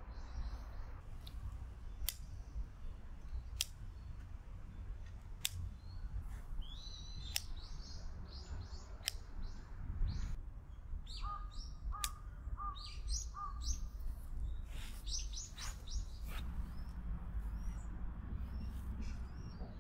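Small birds chirping in short, repeated calls over a steady low rumble, with a few sharp clicks every couple of seconds in the first half.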